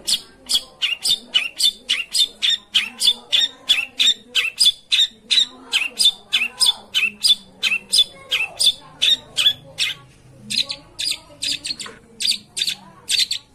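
Long-tailed shrike giving a rapid series of short, harsh, scolding notes, about three a second, with a brief pause about ten seconds in before the notes resume. These are lure calls meant to provoke a silent shrike into answering.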